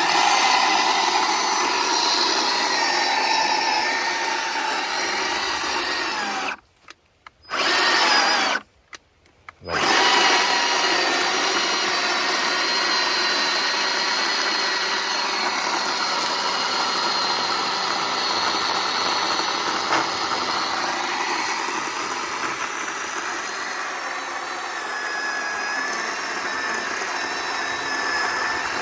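Cordless Bauer electric chainsaw running and cutting through a pin oak log: a steady electric motor whine with chain noise. It stops twice briefly, about seven and nine seconds in, then runs on steadily.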